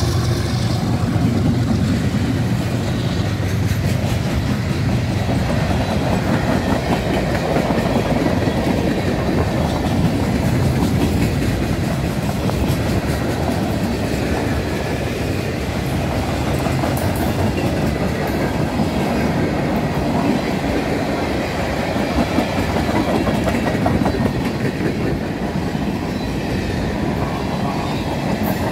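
Long freight train rolling past at close range: a steady rumble with the rapid clatter of car wheels over the rails. A diesel locomotive's engine hum fades out in the first couple of seconds, leaving the wheel noise of the passing freight cars.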